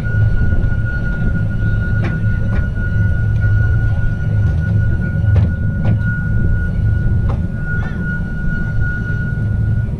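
Small narrow-gauge train running on the track: a steady low rumble with a steady high whine, and a few sharp clacks of the wheels over rail joints, two of them in quick pairs. The whine stops just before the end.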